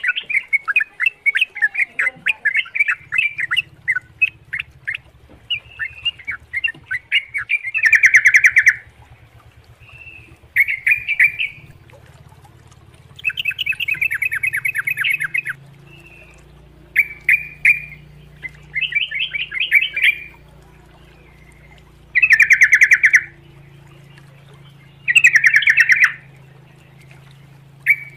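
Sooty-headed bulbul (trucukan) singing: a run of quick ticking notes, then loud bubbling chatter phrases about a second long, repeated every two to three seconds.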